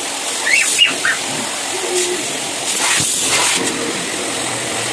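Water spray hissing against an air conditioner during cleaning, in two spurts of about a second each, one at the start and one about three seconds in, over a steady hiss.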